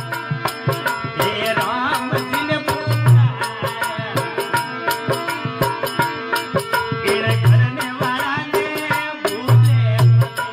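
Rajasthani folk devotional music: a melody over fast rattling percussion and hand-drum strokes, with deep bass drum hits every few seconds.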